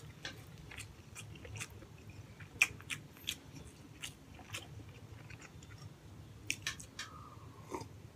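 Close-up chewing of braised pork hock and rice, with many short, sharp wet mouth clicks scattered throughout.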